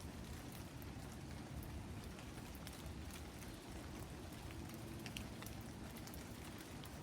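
Light rain falling: a steady hiss of rain with many scattered single drops ticking.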